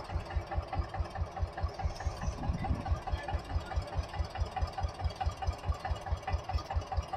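Eicher tractor's diesel engine running steadily, with an even, rapid low thudding of about five to six beats a second.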